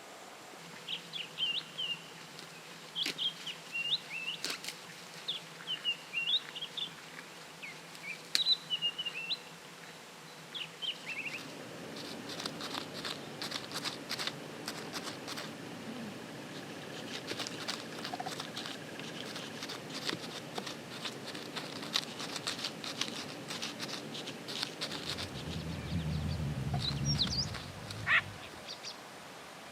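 Small birds calling in short high chirps. About ten seconds in, a dense crackle of rapid clicks joins them and carries on, and a low rumble comes in briefly near the end.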